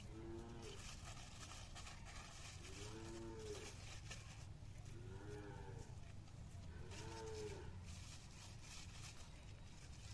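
An animal gives four short, low moo-like calls, each rising and falling in pitch, about two seconds apart, over a faint, steady low background noise.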